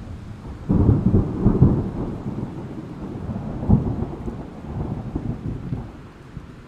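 Thunder with rain: a clap breaks in suddenly just under a second in and rolls on in low, crackling rumbles, with another crack about four seconds in. It then dies away to the steady hiss of rain.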